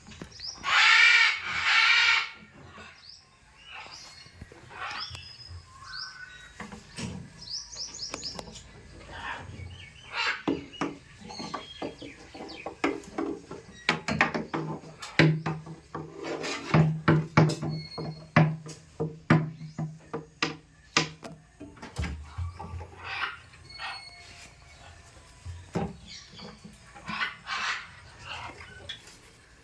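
Pet parrot calling: two loud harsh squawks near the start, then scattered short chirps and whistles. Many sharp clicks and taps run through the rest, and a low steady hum lasts several seconds around the middle.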